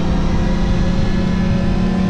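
Yamaha R1 sport motorcycle's inline-four engine running at steady revs while riding, with wind rushing over the microphone.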